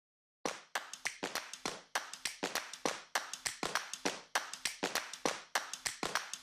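Rapid, irregular sharp tapping, about five taps a second, starting about half a second in after dead silence.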